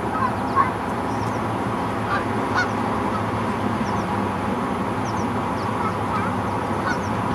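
Waterfowl at a pond giving short honking calls, scattered through and loudest about half a second in, with small birds chirping faintly and high over a steady background hiss.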